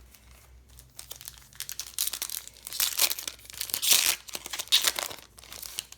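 Trading-card pack wrapper being torn open and crinkled, a dense crackling that starts about a second in and is loudest in the middle.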